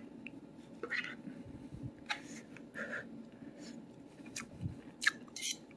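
A person chewing a mouthful of potato: faint, irregular mouth clicks and smacks.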